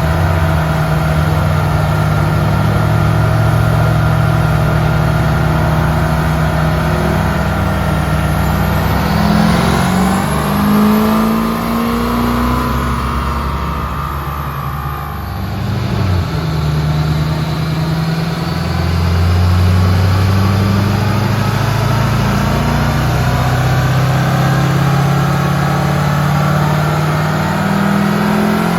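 Diesel pickup truck engine running hard under load on a chassis dyno, easing off about fifteen seconds in and then pulling hard again.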